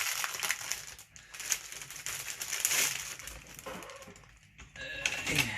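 Rustling and light clattering of tools and small parts being handled on a workbench, with a few small clicks.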